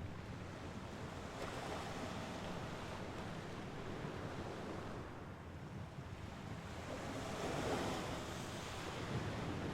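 Mediterranean Sea waves washing onto the shore, a steady surf rush with a stronger wave breaking about seven seconds in.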